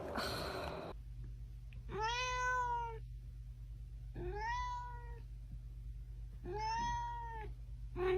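A domestic cat meowing three times, each meow about a second long and rising then falling in pitch, with a fourth meow starting near the end. A low steady hum runs underneath.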